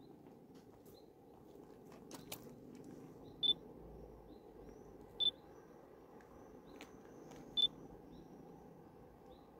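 A bird repeats a short, clear high note three times, a couple of seconds apart, among fainter chirps, over a faint low steady rumble.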